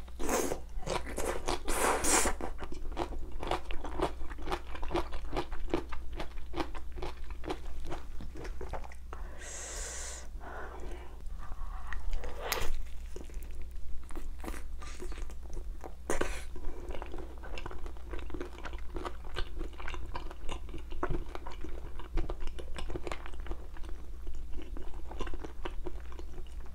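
Close-miked chewing, biting and crunching of spicy bone-in chicken feet, with many small wet clicks and crackles as the meat is gnawed off the bones. A brief breathy hiss comes about ten seconds in.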